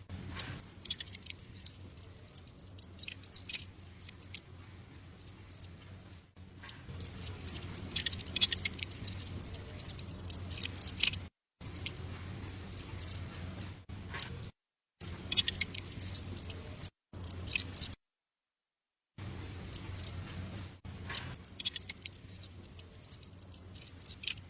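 Irregular light clicks and scrapes of small hard parts being handled and worked, over a faint steady hum. The sound is broken by several abrupt silent gaps where short clips are cut together.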